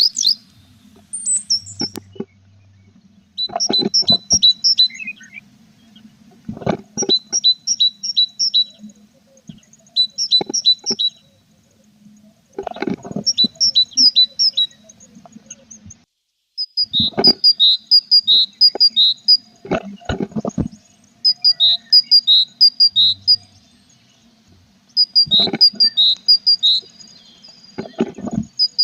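Tits in a nest box chirping in short bursts of rapid high notes, about a dozen bouts, each opening with sharp knocks.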